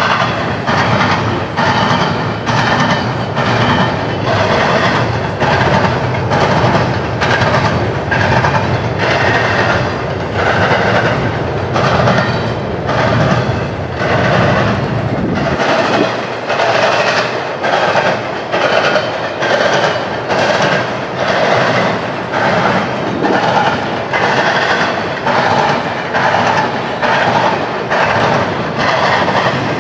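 Train cars rolling past, their wheels clacking over the track in a steady rhythm a little over once a second. A low rumble underneath drops away about halfway through.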